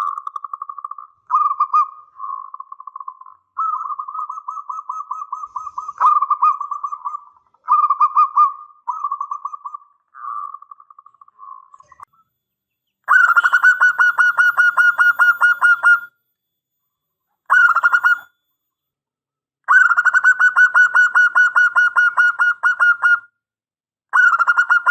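Zebra dove (perkutut) cooing: rapid pulsed, trilled phrases repeated with short pauses, each held at a steady pitch. After a gap about halfway through, louder and slightly higher phrases follow, two long and two short.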